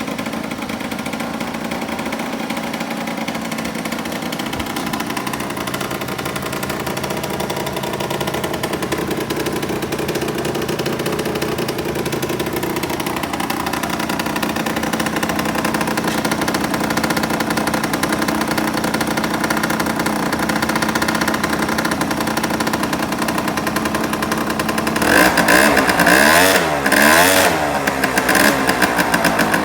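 Suzuki Street Magic CA1LB scooter's small two-stroke engine, just started, idling steadily. Near the end the throttle is blipped a couple of times, the engine revving up and dropping back to idle.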